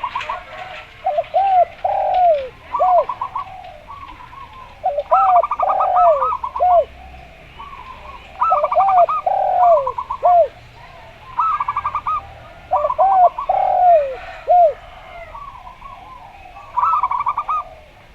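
Zebra dove and spotted dove cooing, in repeated phrases every few seconds: quick runs of rapid trilled notes mixed with arching, falling coos.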